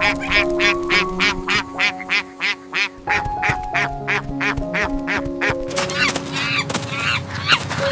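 Ducks quacking in a fast, even run of about four calls a second over background music with a simple melody; about three seconds in the calls turn irregular.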